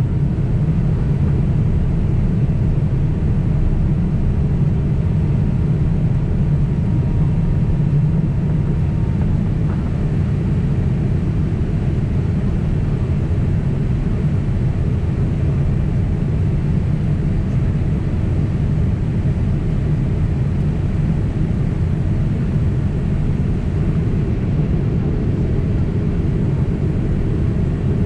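Steady in-flight cabin noise of a Boeing 767 airliner: a low, even drone of the jet engines and airflow.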